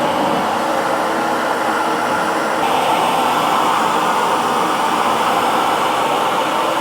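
Hair dryer running steadily: an even rush of blown air and motor noise, with a slight change in tone about two and a half seconds in.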